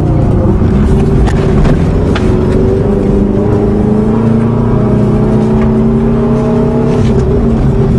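Subaru boxer engine running under way, heard from inside the cabin, its pitch creeping up slowly and then dropping about seven seconds in. A few light knocks a second or two in.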